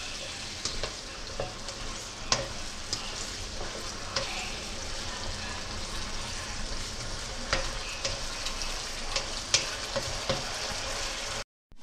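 Chicken pieces frying in yogurt and masala in a non-stick wok on high heat: a steady sizzle, with a spatula stirring and scraping the pan and now and then tapping it sharply. The sound drops out for a moment near the end.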